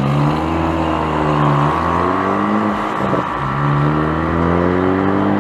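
Small minibike engine running hard, its pitch rising and falling as the throttle is worked, with a short dip a little past the middle before it picks up again.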